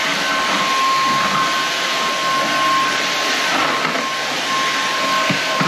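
Inse S610 cordless stick vacuum running steadily: an even rushing of air with a high whine from the motor.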